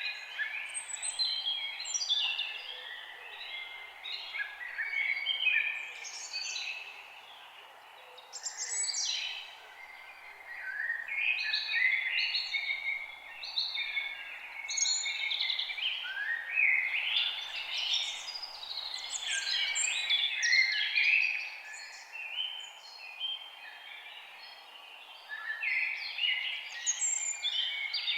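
Several songbirds singing in a forest, overlapping fast chirping and warbling phrases in bursts with brief lulls, over a faint steady background hiss.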